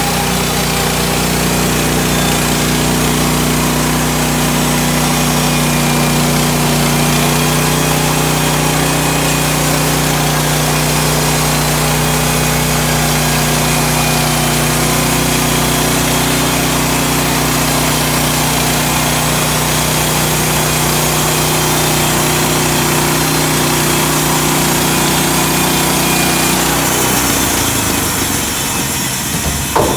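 Woodland Mills HM130 bandsaw sawmill's gas engine running steadily under load as the band blade cuts through a spruce log. Near the end the engine note changes and drops toward idle.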